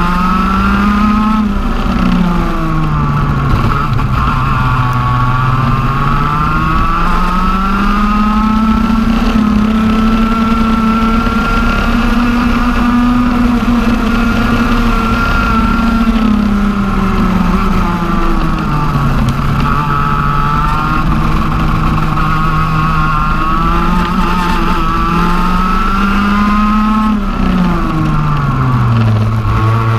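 TM OK-class 125cc two-stroke kart engine at racing speed. Its note climbs and holds high as it accelerates, then drops as it slows for corners, with the deepest drops near the start, about halfway through and near the end.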